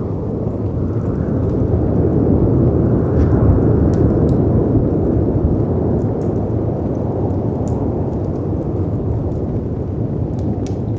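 Deep, steady rumble of storm wind and sea surf that swells about three seconds in and then eases, with scattered small crackles and pops from a wood fire.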